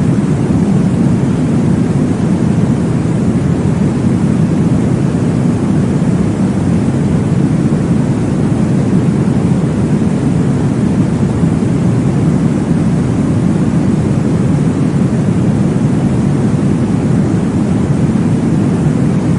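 Steady, deep sleep-aid noise for babies: an even, unbroken whoosh weighted to the low end, like a muffled rushing hiss, with no beat standing out.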